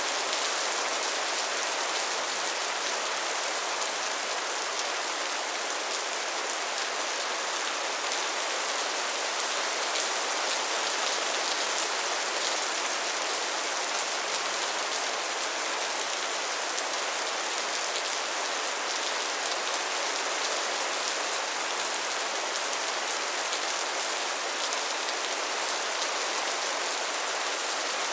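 Steady soft rain falling on a surface, an even hiss with faint drop patter and no thunder.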